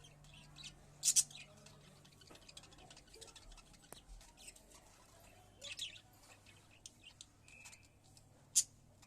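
Pet budgerigars giving short, high chirps, three louder ones about a second in, around the middle and near the end, among faint scattered ticks and scratches.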